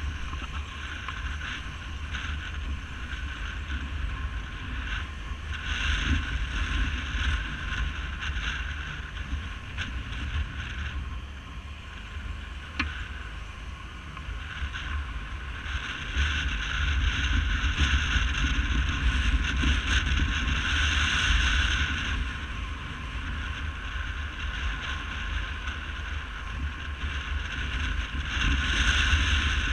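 Wind rushing over the microphone of a camera on a moving motorcycle, with a steady low rumble of engine and road noise; it gets louder for a few seconds in the middle and again near the end.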